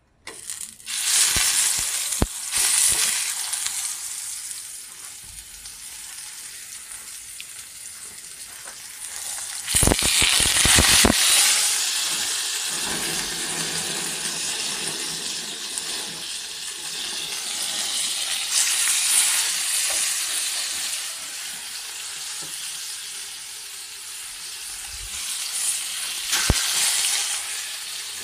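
Pork chops sizzling in hot oil in a frying pan as they are laid in with tongs. The sizzle swells louder about a second in and again around ten seconds in.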